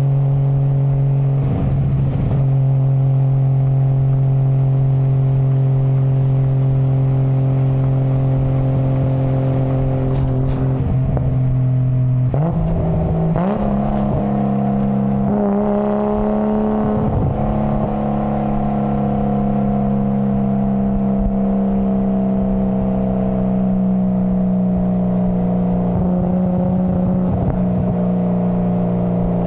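Nissan Skyline GT-R (BCNR33) RB26DETT twin-turbo straight-six running at a steady drone. Its pitch steps up about twelve seconds in and then holds, sagging slightly toward the end.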